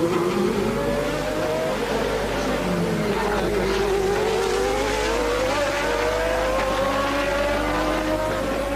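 1988 Formula One race car engines running, several engine notes overlapping; the pitch dips over the first few seconds and then climbs slowly.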